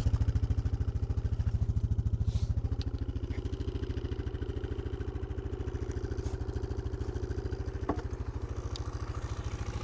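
Small off-road vehicle engine idling steadily, a little quieter after about three seconds, with a single short knock about eight seconds in.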